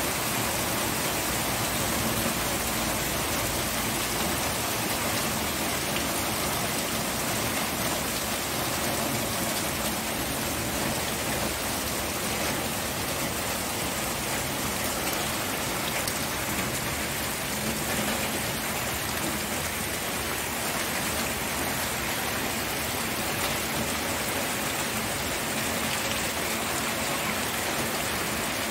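Steady rainfall, an even hiss of many raindrops hitting a surface, with no change in strength.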